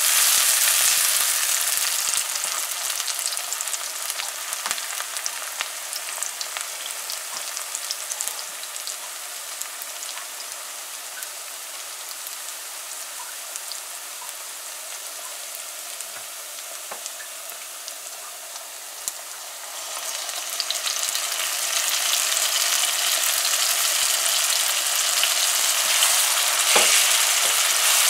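Sliced onions frying in hot oil in a karahi: a steady sizzle that dies down after the first few seconds and grows loud again about twenty seconds in, as curry paste goes into the pan. Light taps and scrapes of a silicone spatula stirring come through now and then.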